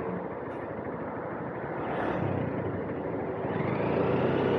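Honda CBF190X single-cylinder engine running at low speed in slow traffic, with road and surrounding traffic noise. A steady engine hum is faint in the middle and grows clearer near the end.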